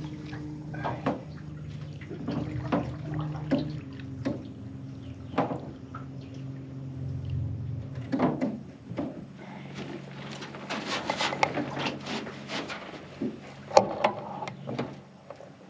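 Water splashing with repeated clicks and knocks as a big fish is handled at the side of a jon boat. A steady low hum runs underneath and shifts in pitch about four seconds in. The clicks and splashes come thickest in the second half.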